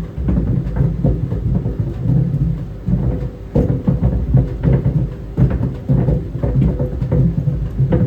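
Tennis balls tumbling in a running clothes dryer: a steady low rumble from the drum, broken by frequent, irregular thuds as the balls drop and hit the drum.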